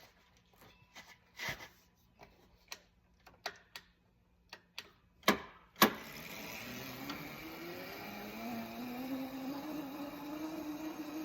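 Scattered clicks and knocks from a child's electric dirt bike being handled, with two loud knocks about five seconds in. Then its electric motor starts whining, the pitch rising steadily as the bike picks up speed.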